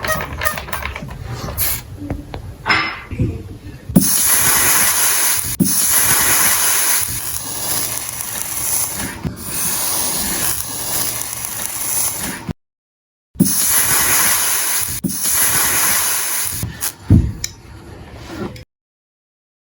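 Knocks and clatter, then a loud, steady hiss of pressurised spray lasting several seconds. It is broken once by a sudden dead silence, then resumes for a few seconds more before further knocks.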